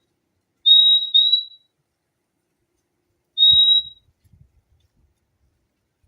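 Purple-throated euphonia (fim-fim) calling: clear, high, nearly level whistled notes, a quick pair about a second in and then a single note a couple of seconds later.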